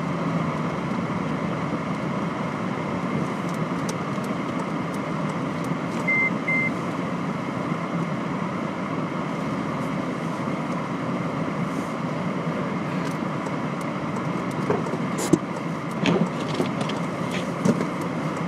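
Steady road and engine noise inside a Honda Civic Si's cabin while driving slowly on snowy roads, with two short high beeps about six seconds in and a few sharp clicks near the end.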